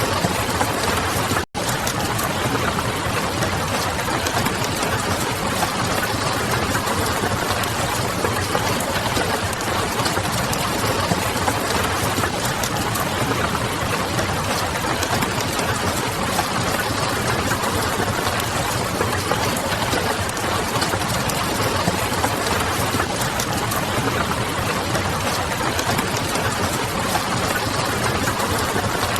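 Steady rain and crackling wood fire ambience, a dense even hiss sprinkled with fine crackles over a low hum. The sound cuts out for a split second about one and a half seconds in.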